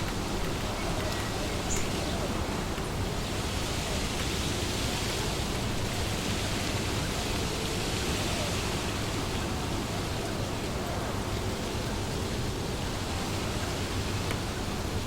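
Wind blowing through trees, a steady rushing of leaves that swells into a stronger gust from about four to ten seconds in.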